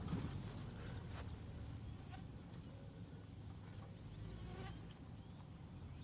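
Faint outdoor ambience: a low steady rumble of wind on the microphone with a few faint, scattered chirps of birds or insects.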